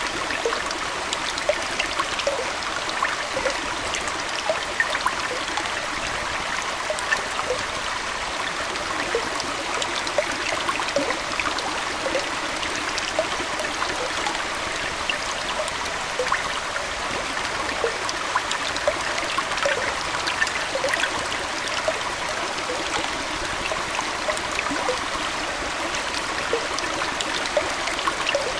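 Aquarium water flowing and trickling steadily, a continuous wash of water with many small bubbling plinks scattered throughout.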